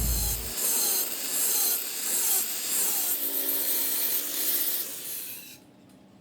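Rhythmic rasping strokes of a tool scraping metal, about two a second, stopping suddenly near the end.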